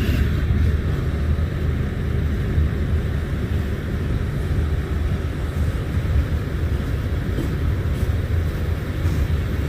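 Freight train rolling past, a steady low rumble that holds at an even level.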